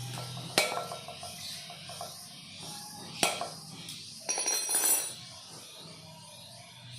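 Two sharp metallic clinks with a short ring, then a brief ringing scrape of metal on metal near the end, from refrigerator compressor parts being handled with tools. A steady low hum and background music run underneath.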